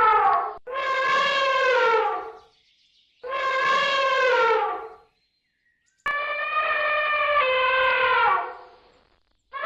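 An animal's long, horn-like calls repeated with short gaps: three full calls of about two seconds each, each dropping in pitch at the end, with the tail of one call at the start and the next beginning at the very end.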